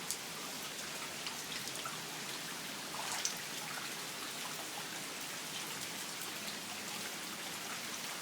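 Heavy rain falling steadily, a dense patter of drops hitting surfaces and standing floodwater.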